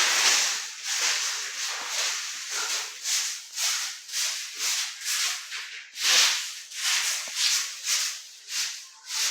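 Broom sweeping a floor in quick, even strokes, about two scratchy swishes a second.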